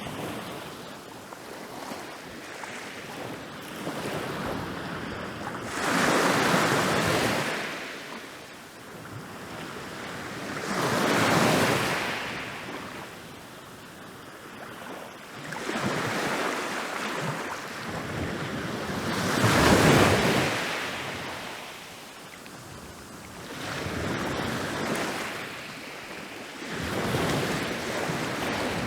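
Ocean waves rolling in and breaking on a beach. The surf surges and recedes every four to five seconds, and the loudest break comes about twenty seconds in.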